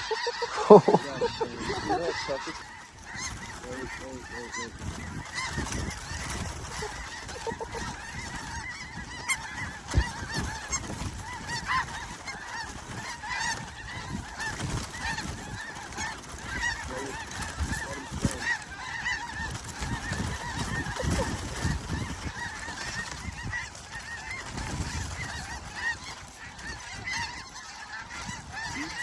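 Many snow geese calling together in a dense, unbroken chorus of honks, with one louder sudden sound about a second in.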